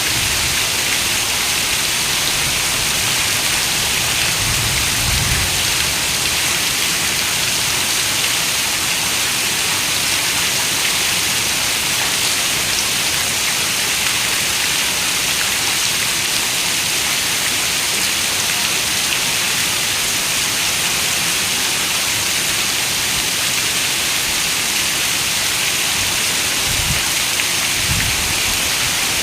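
Heavy rain falling steadily on a window, an even hiss of drops, with a soft low rumble about five seconds in and two brief low thumps near the end.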